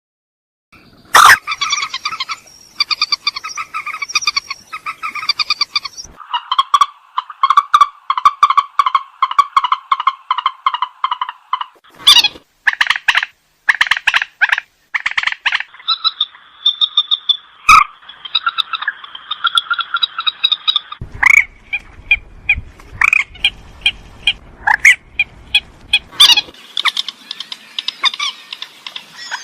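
Purple swamphen calling: long runs of rapid, pulsed, rattling calls at several pitches, broken by short sharp notes. The calls start about a second in.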